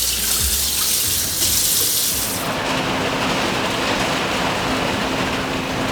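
Running water making a steady rushing hiss. About two and a half seconds in it changes to a duller, lower rush with a faint steady hum.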